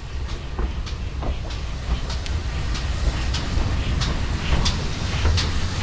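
Heritage railway carriage running along the line: a steady low rumble of wheels on rail, with irregular sharp clicks and knocks from the running gear over the track.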